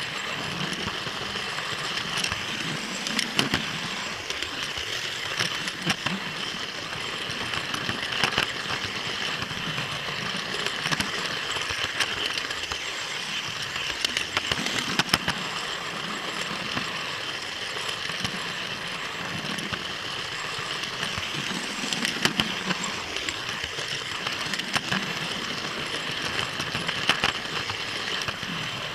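Model trains running on the layout track: a steady whirr of motor and wheels, with sharp clicks every second or two as the wheels cross rail joints.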